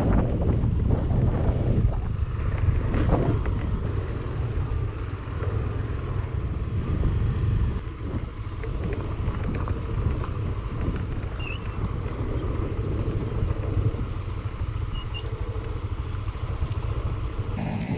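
Yamaha Aerox 155 scooter's single-cylinder engine running while it is ridden, a steady low rumble with a few knocks from the ride.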